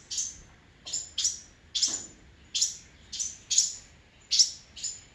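A fledgling songbird chirping over and over in short, sharp, high calls, about two a second, close by.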